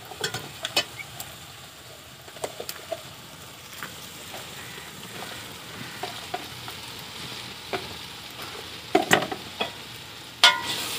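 Chopped mustard stalks (gandal) frying with potatoes and spices in ghee in an aluminium pot over a wood fire, sizzling steadily. A steel ladle clinks and scrapes against the pot as they are stirred, with the loudest clinks near the end, one with a short metallic ring.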